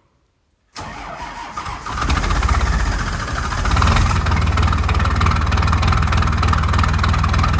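1991 Dodge pickup's 5.9-litre Cummins straight-six turbo diesel cold-starting at minus ten degrees: starter cranking briefly from about a second in, the engine catching and picking up, then running steadily with an even, rhythmic diesel clatter.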